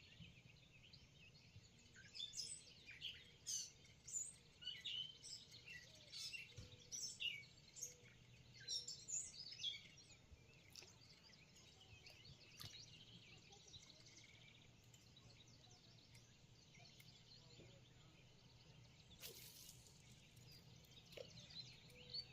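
Faint birdsong outdoors: many short, high chirps for the first ten seconds or so, fewer after that.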